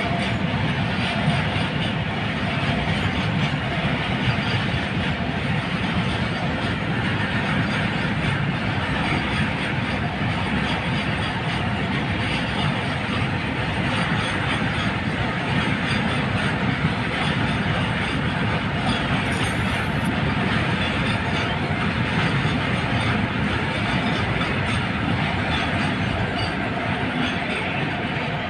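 Goods train of aluminium wagons rolling along the rails: a steady, continuous rumble and rattle of wheels and wagons.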